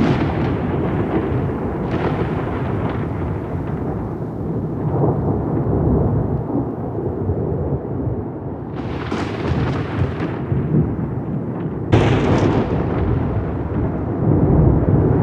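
Rolling thunder: a continuous deep rumble broken by sharper cracks about two seconds in and about nine seconds in, with the loudest crack about twelve seconds in.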